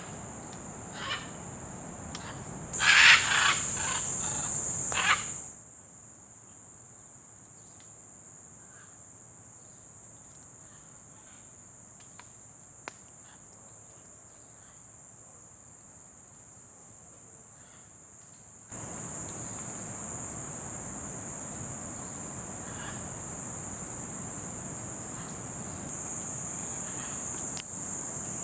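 Loud harsh bird squawks in a burst a few seconds in, over a steady high-pitched insect drone. The drone cuts off suddenly, leaving a quieter stretch with faint scattered calls, and comes back partway through.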